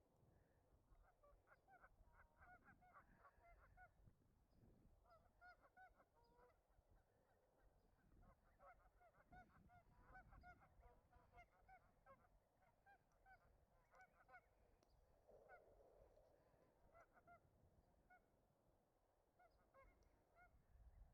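A flock of geese honking faintly, many short calls overlapping throughout, busiest in a few stretches.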